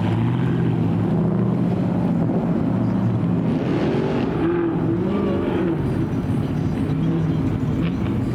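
Car engine running with a steady, deep low rumble. A wavering higher-pitched sound rises and falls over it for a couple of seconds in the middle.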